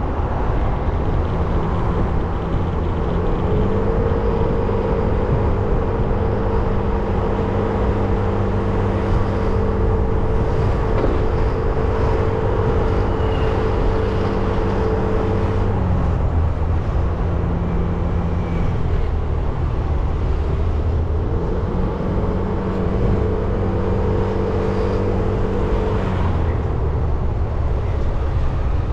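Motorcycle engine running at a steady cruising speed over constant wind and road noise. Its note holds level for long stretches, drops away for a few seconds past the middle, then returns before dropping again near the end.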